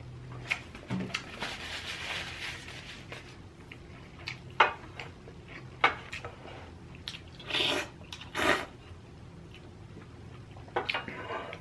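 Close-miked eating sounds: wet chewing and mouth clicks from someone eating rice-stuffed fried bean curd with ramen, with two short louder noisy bursts about two-thirds of the way through.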